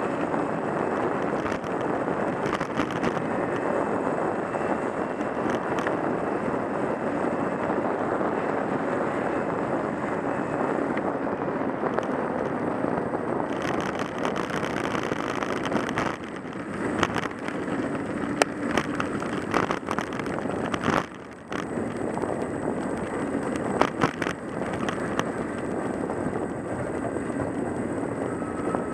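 A car in motion, heard from inside, with a steady rumble of road and engine noise. Scattered knocks and clicks come in the second half, and the noise drops briefly about two-thirds of the way through.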